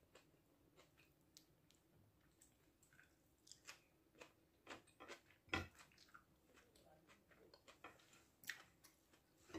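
A person eating rice by hand and chewing: faint mouth sounds and soft scattered clicks, the loudest about five and a half seconds in.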